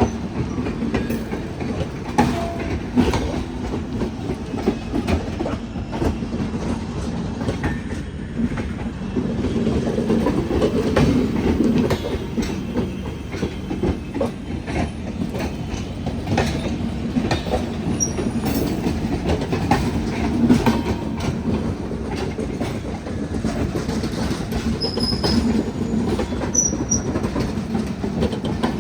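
Passenger express coaches rolling steadily over a railway diamond crossing: a continuous rumble with irregular clacks and knocks as the wheels cross the rail gaps, and a few brief high wheel squeals near the end.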